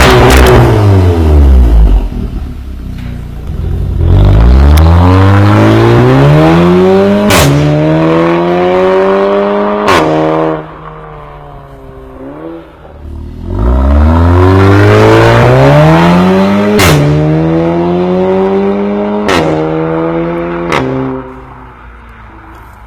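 Audi S3 8V's turbocharged four-cylinder through an Armytrix valvetronic exhaust, accelerating hard through the gears twice. The engine note climbs, drops back at each upshift with a sharp crack, and falls away when the throttle is lifted.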